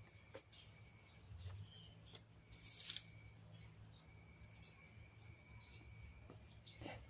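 Near silence: faint outdoor ambience with steady faint high tones and a low hum, and a soft click about three seconds in.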